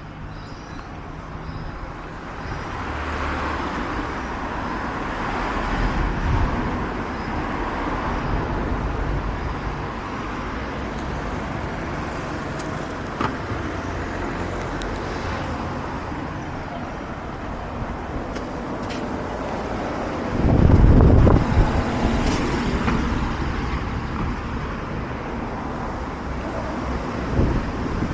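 Road traffic: cars passing, with a louder low rumble lasting a second or two about three quarters of the way through.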